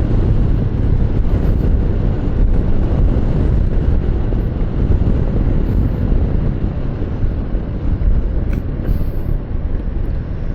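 Motorcycle riding at speed: a steady, loud rush of wind on the microphone mixed with engine and road noise, heaviest in the low end.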